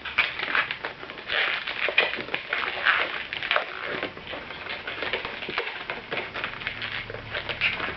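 Inflated latex modelling balloon being twisted and handled, with a string of short, irregular rubbing noises as fingers work the rubber.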